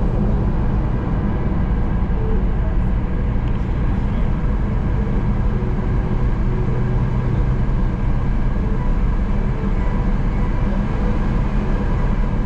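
Tour bus driving along, heard from inside the cabin: a steady low engine and road rumble.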